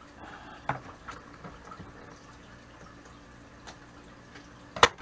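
Handling noises at a sewing table: a few light knocks and rustles about a second in, then one sharp knock near the end, over a steady low hum.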